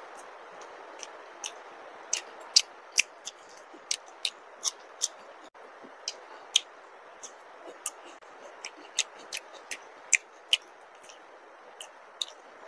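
Close-up chewing of food, with sharp wet mouth clicks and smacks coming irregularly, about one or two a second, over the steady hiss of heavy rain.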